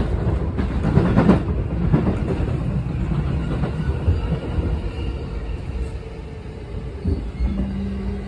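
Train noise heard from inside a JR Yokohama Line carriage: wheels clicking over rail joints in the first couple of seconds, then a steady rumble that grows quieter as the train slows for the station, with a faint steady whine near the end.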